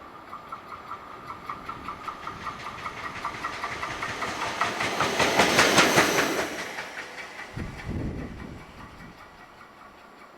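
Something passing by with a fast, even clacking and a hiss, growing loud to a peak about six seconds in and then dying away, with a low thump near the end.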